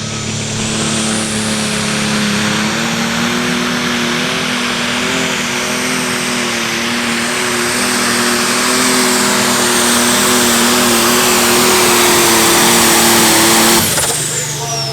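Turbocharged diesel pulling tractor at full power under load, a steady engine note with a high turbo whine that rises early on and a slow build in loudness. Near the end the engine cuts off suddenly and the turbo whistle winds down in falling pitch.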